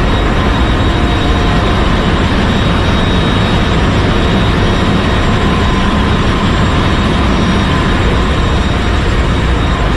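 Loud, steady drone of a ship's running machinery, an unbroken roar with a few faint steady tones above it.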